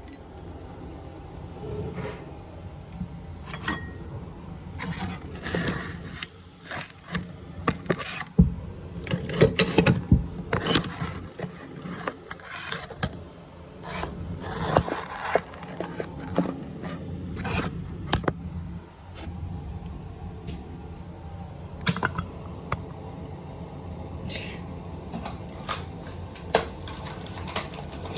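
Irregular scraping, clicking and knocking of hand tools and metal plumbing fittings being worked and handled at a toilet supply pipe.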